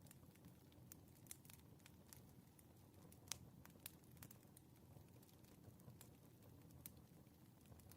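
Faint wood fire crackling: irregular sharp pops and snaps over a low, soft rumble of burning firewood, one pop a little louder a few seconds in.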